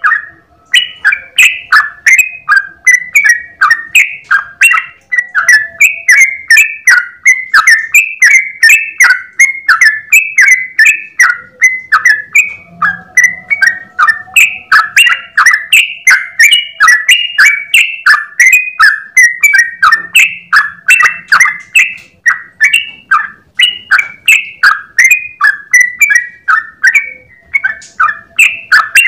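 Yellow-vented bulbul (trucukan) singing a long, unbroken 'ropel' run of quick, bubbling chirping notes, several a second, without a pause.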